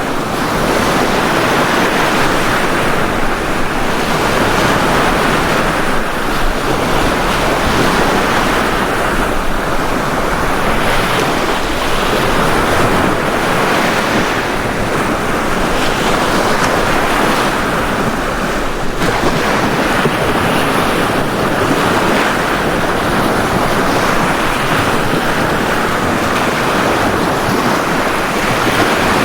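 Ocean surf breaking on a beach: a continuous wash of waves that swells and ebbs every few seconds.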